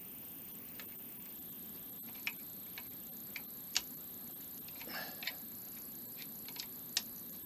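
Small parts of a model helicopter kit being handled and fitted by hand: a few sharp isolated clicks and taps, the clearest about four seconds in and again near the end, with a brief scuffle of handling in between.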